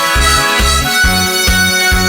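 Harmonica playing a melody over an accompaniment with a steady bass beat.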